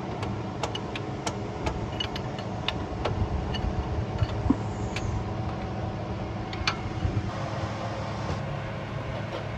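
An engine idling steadily with a low rumble, with scattered sharp metallic clicks and clinks over it.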